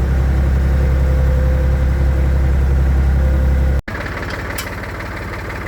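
Classic tractor engine running steadily with a deep, even drone. A little under four seconds in, the sound cuts off abruptly and gives way to a quieter tractor engine idling with a rattly, knocking beat.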